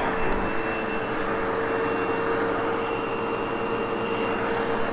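Sebo X8 upright vacuum cleaner running while it is pushed over carpet: a steady whine over an even rush of air.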